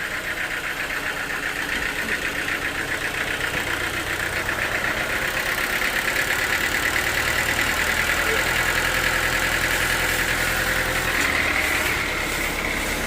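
Sawmill machinery running steadily, a continuous engine-driven drone with a fast, even rattle in its upper pitch, growing slowly louder over the first several seconds and then holding level.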